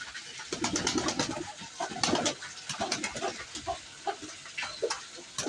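Pigeons cooing in low, throaty calls, with scattered sharp clicks and taps among them.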